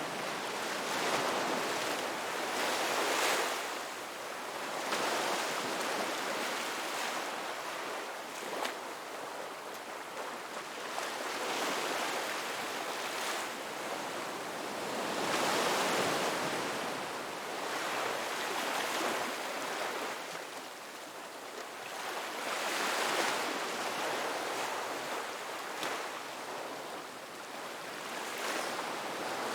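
Ocean waves breaking on a beach: a continuous surf hiss that swells and fades as each wave comes in, with a stronger surge every few seconds.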